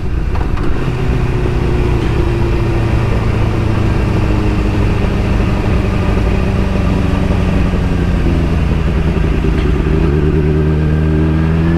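Suzuki GSX-R600 sport bike's inline-four engine running at a steady speed through a turn, heard from the rider over loud wind noise on the helmet microphone; the engine note climbs gently near the end as it accelerates.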